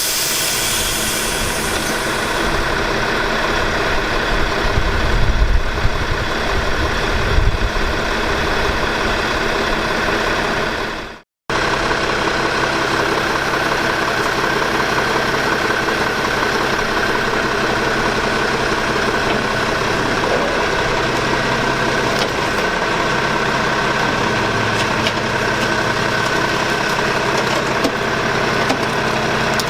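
Maxon MSL automated side-loader garbage truck's engine running steadily, with heavier low rumbling around five to eight seconds in. The sound cuts out for an instant about eleven seconds in.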